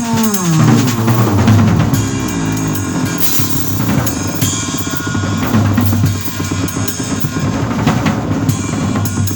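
Bass and drum kit playing together in a free improvisation: the bass slides down in pitch at the start, then holds low notes, while the drums keep up a busy pattern of kick, snare and cymbal strikes.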